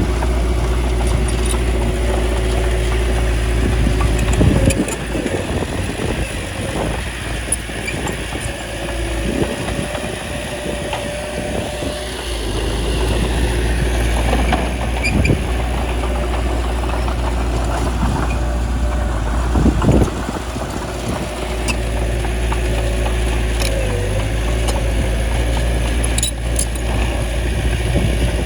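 Heavy earthmoving machine's diesel engine running, its low drone dropping away and returning twice as the load changes, with a few brief knocks spaced several seconds apart.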